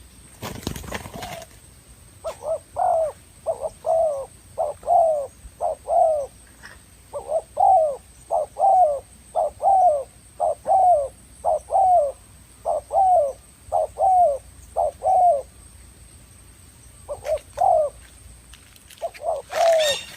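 Spotted dove (tekukur) cooing: a long run of short coo notes, each falling in pitch, in quick succession, with a pause of about two seconds before it resumes near the end. A brief rustle comes at the start.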